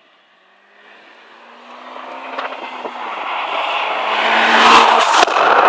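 Seat Leon Cupra with a Cobra aftermarket exhaust accelerating hard under a launch-control start, the exhaust growing steadily louder over several seconds. Sharp cracks from the exhaust come about two and a half seconds in and twice near the end.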